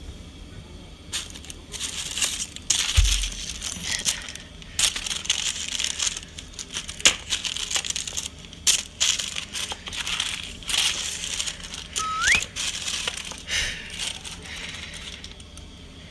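A cat scrabbling and batting in crinkly, rustling material, in quick irregular bursts of scratching and crinkling. A short rising squeak comes about twelve seconds in.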